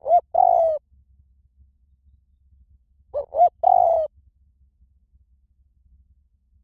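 Spotted dove cooing: two call phrases about three seconds apart, each two short coos followed by a longer, slightly falling coo. This is a recorded call used to lure wild spotted doves or to train a caged one to call back.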